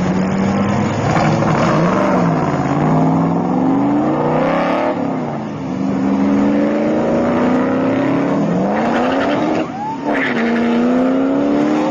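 Sports car engines accelerating hard, the revs climbing in long rising sweeps that fall back at each gear change, with a short sharp rev blip about ten seconds in.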